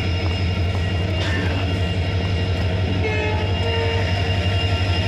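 Steady low drone of a passenger train standing at a railway platform, with a faint higher tone coming and going.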